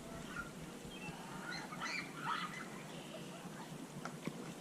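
Faint bird calls, a few short chirping notes around the middle, over a quiet outdoor background.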